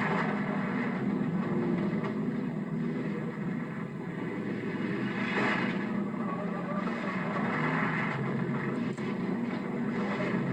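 Pack of stock cars racing, a continuous drone of many engines at speed with brief louder swells as cars pass.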